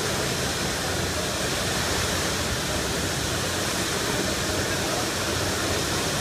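Steady rushing of a high-pressure water jet gushing from a fire hydrant that a truck has sheared off, heard from several floors up.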